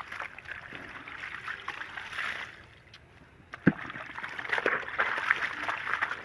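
Water sloshing and splashing as clothes are rinsed by hand in a bowl, with one sharp knock a little past the middle.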